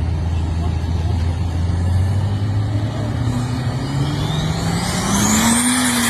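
2000-horsepower Dodge Ram dually truck accelerating hard, its engine note climbing steadily in pitch for about five seconds. A high whine rises with it from about four seconds in, and the note eases back slightly near the end.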